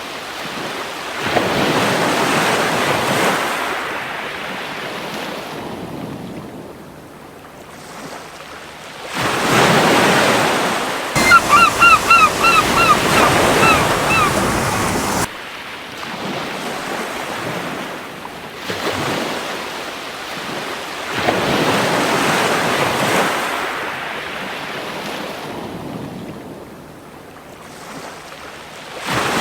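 Sea waves breaking and washing up the shore in slow swells, one every six or seven seconds. About a third of the way in, a gull gives a quick run of about ten short, repeated calls.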